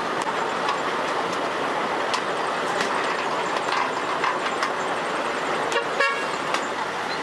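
Steady vehicle running noise with scattered sharp clicks, and a short horn-like toot about six seconds in.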